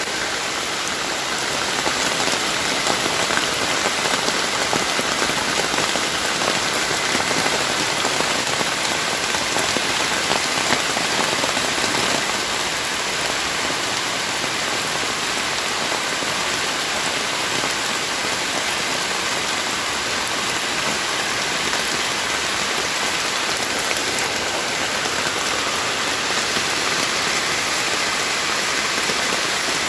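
Heavy rain falling steadily on forest leaves, a dense even hiss, a little heavier for about the first ten seconds.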